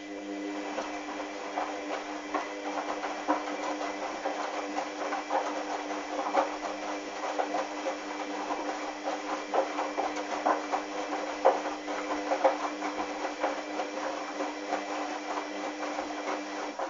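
Hoover washing machine's motor turning the drum during a wash: a steady motor hum, with the wet, sudsy towels tumbling and splashing inside. The drum's turn cuts off near the end.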